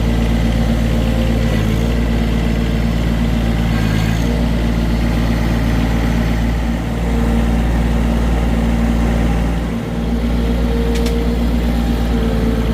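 John Deere 1023E compact tractor's three-cylinder diesel engine running steadily, with small dips in level about seven and ten seconds in.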